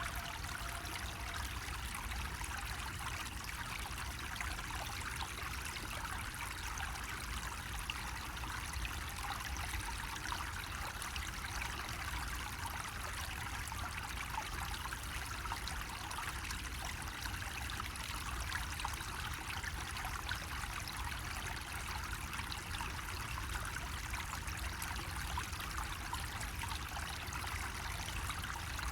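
Water running steadily from a bamboo spout, a continuous trickling splash that does not change, with a low rumble underneath.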